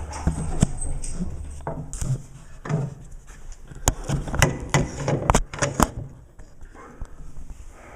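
Handling noise as equipment is set up: rubbing and low bumping, then a quick run of sharp clicks and knocks about four to six seconds in.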